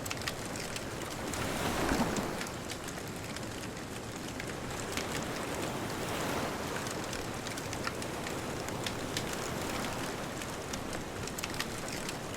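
Beach bonfire crackling with many small pops over a steady wash of distant ocean surf; a wave swells up and falls away about two seconds in.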